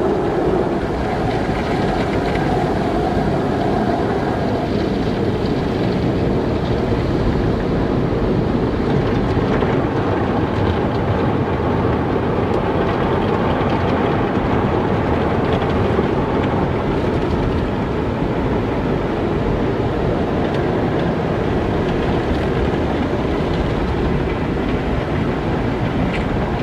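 Automatic car wash running: a steady, even rush of spraying water and machinery with a deep rumble, unchanging throughout.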